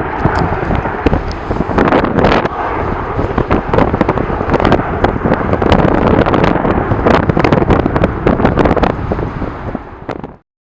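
Strong wind buffeting the camera microphone: a loud, rumbling roar full of crackling pops. It cuts off suddenly near the end.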